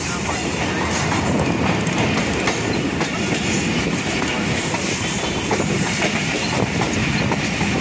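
Passenger train coaches running, the wheels clattering over rail joints and points, with steady rolling noise heard from beside the moving coach.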